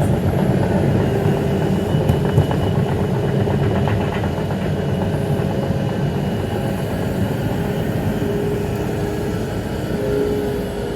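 A train running on the line: a steady, dense rolling noise with a few thin steady tones over it, easing slightly in loudness toward the end.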